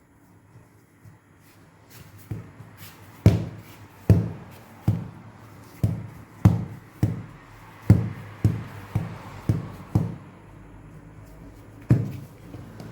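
A run of soft, heavy thumps, roughly one or two a second, as portions of bread dough are worked and pressed by hand against a floured work surface.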